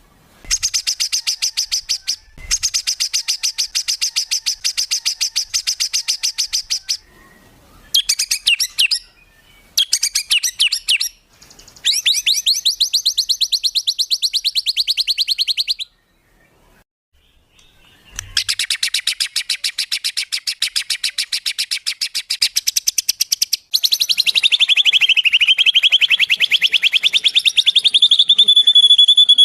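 Songbird song of the rapid 'tembakan' kind used in masteran training tracks: bursts of very fast, sharp repeated high notes with short gaps between them. The last and longest burst dips in pitch and rises again near the end.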